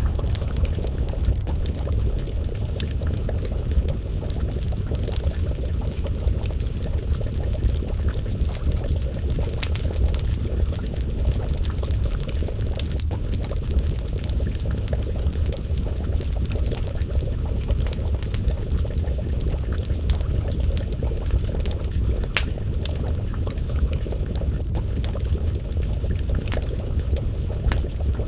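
Wood fire crackling with scattered sharp pops over a steady low noise, mixed with the bubbling of a pot of stew simmering over the flames.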